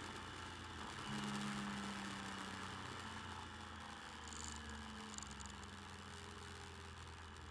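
Motorcycle engine running along at a steady pace, picked up by a bike-mounted camera microphone along with wind and road noise. The engine note swells about a second in, then slowly eases off.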